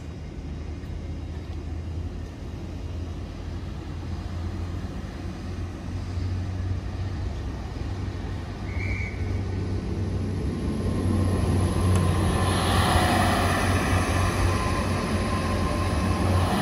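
GWR Class 802 bi-mode trains running on their underfloor diesel engines: a steady low hum, joined about two-thirds of the way in by a second unit's engine and wheel noise, which grows louder as it passes on the next track.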